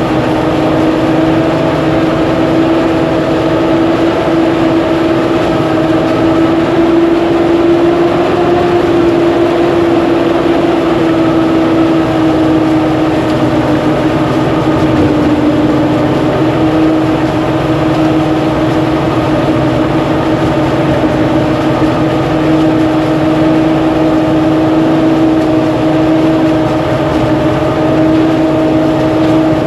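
Rice threshing machine running steadily with a loud, even hum whose pitch wavers slightly.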